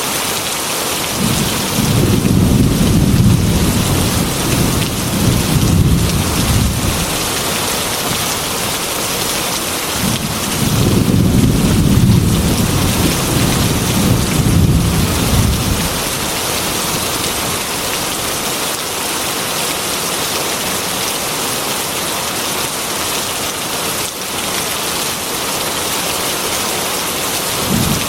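Heavy rain falling steadily on a glass window, with two long rolls of thunder, one starting about a second in and one about ten seconds in, each rumbling for around five seconds; a third roll begins right at the end.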